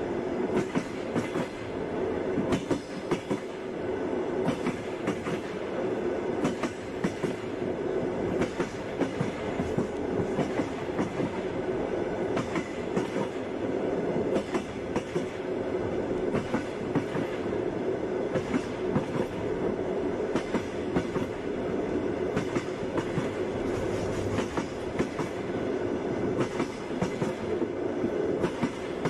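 Passenger train running along the track: a steady rumble with frequent clicks and knocks of the wheels passing over rail joints.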